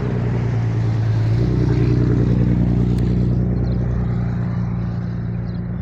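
A motor vehicle engine running at low speed: a low, steady hum that grows louder for a couple of seconds and then slowly fades.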